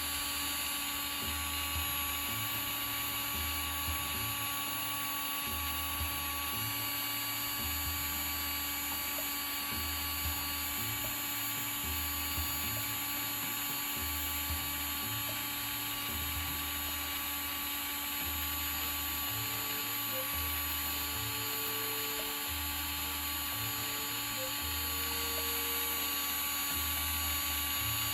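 Small electric motor running steadily with a high whine and an uneven low throb, winding the old tangled nylon line off a spinning reel.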